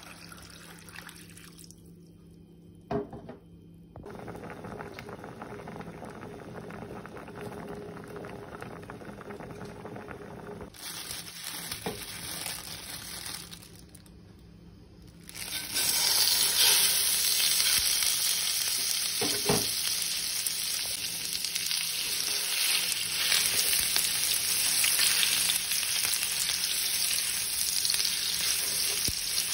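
Water pouring over diced raw potatoes in a pot at the start. From about halfway, minced chicken frying in hot olive oil in a nonstick pan: a loud, steady sizzle, with a spatula stirring and scraping the meat.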